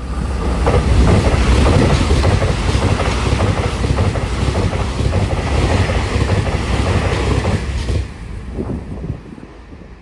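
Taiwan Railway express electric multiple-unit train passing at about 127 km/h, a loud rushing rumble with rapid clickety-clack of the wheels over the rail joints. The sound dies away about eight seconds in as the last car goes by.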